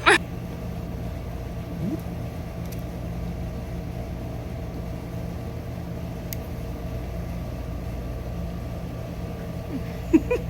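Steady low hum of a car running, heard from inside the cabin, with a short knock at the start, a few faint ticks, and two brief clunks near the end.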